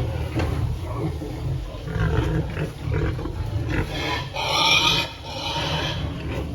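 Pigs grunting, with one short squeal about four and a half seconds in, over a steady low rumble.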